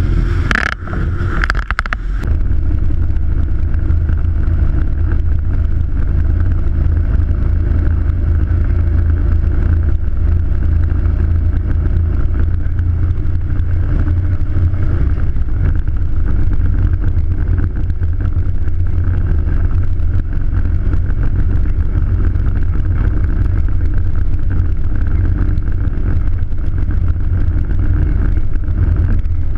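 Steady rumble of wind and travel noise on the microphone of someone riding a bike, heaviest in the low range, with a brief knock-like disturbance about a second in.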